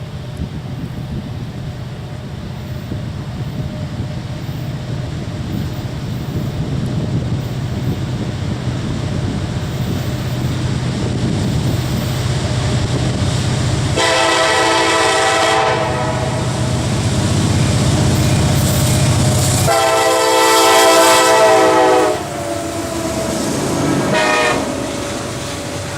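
Diesel freight locomotives approaching, their engine rumble slowly growing louder, then the air horn sounds two long blasts and a short one, the start of a grade-crossing warning pattern.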